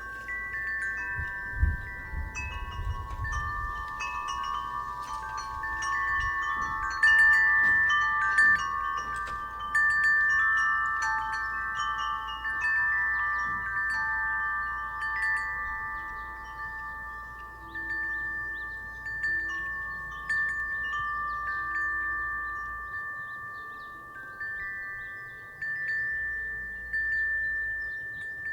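Wind chime ringing in the breeze: its tones are struck again and again and overlap, each ringing on and fading slowly. A gust of wind rumbles on the microphone about two seconds in.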